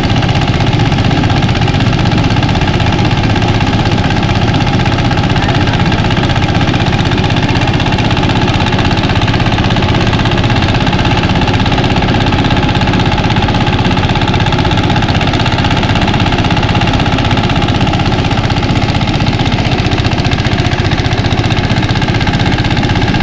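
Mini rice thresher running steadily, its small engine driving the threshing drum with a fast, even chugging.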